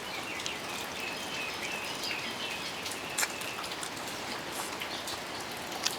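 Steady heavy rain falling and pattering on surfaces, with a few faint chirping calls in the first half and a single small tick about halfway through.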